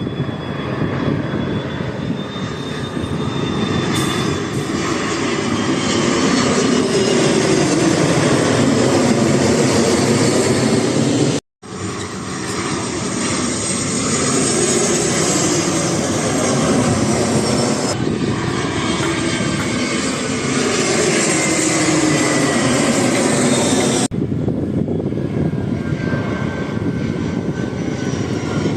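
Airplane engines passing low overhead on landing approach, a loud rushing roar with whining tones that fall slowly in pitch as each aircraft goes by. The sound cuts out abruptly about a third of the way in and changes suddenly twice more, where takes are spliced together.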